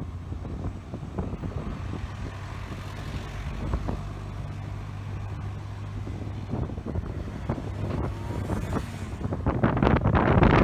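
Aircraft engine droning at a steady pitch, with wind buffeting the microphone, the gusts getting loudest near the end.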